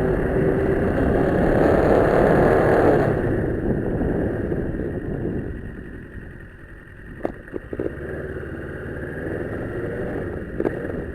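Kawasaki Ninja 650R's parallel-twin engine running on the road. It is loud at first, then drops away and gets quieter from about three seconds in, with a few sharp clicks later on.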